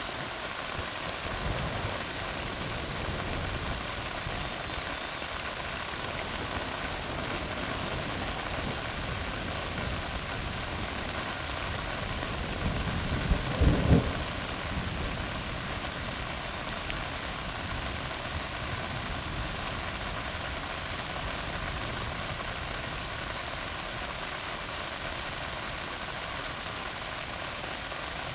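Steady rain falling on a tar road, with a short, low rumble of thunder about halfway through that is the loudest moment.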